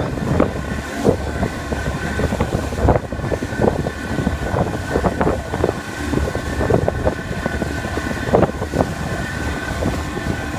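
A glass-bottom tour boat's engine running steadily under way, a constant hum and rumble, with irregular short bumps of water against the hull and wind noise on the microphone.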